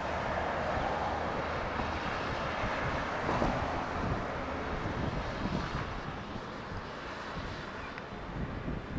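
Strong wind buffeting the microphone: a steady rushing noise that eases slightly after about six seconds.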